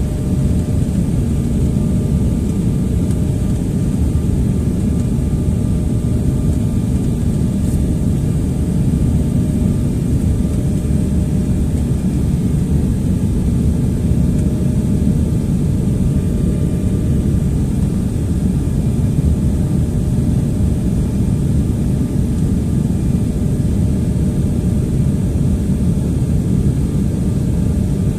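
Steady jet airliner cabin noise: engines and rushing air, a low, even roar with a faint steady hum on top, heard from inside the cabin during the approach.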